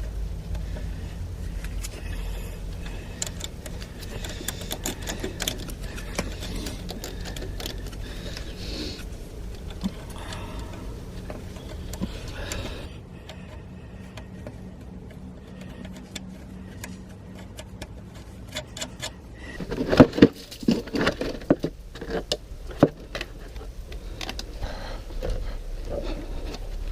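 Hand tools working on the metal of an excavator's starter motor mounting while the starter is being removed: a run of small metallic clicks and clinks, with a burst of louder clanks and knocks about twenty seconds in.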